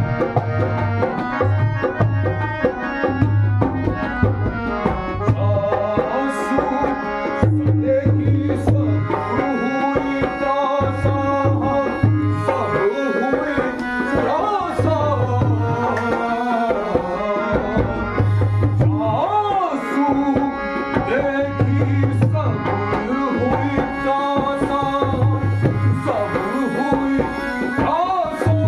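Ramlila accompaniment music: tabla playing a steady rhythm of deep and sharp strokes under melodic accompaniment holding sustained notes, with a few sliding phrases.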